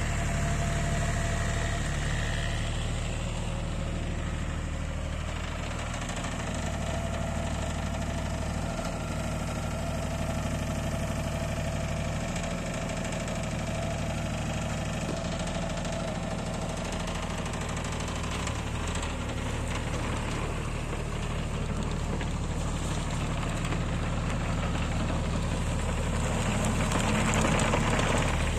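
JCB 8030 mini excavator's diesel engine running steadily at idle, getting a little louder near the end.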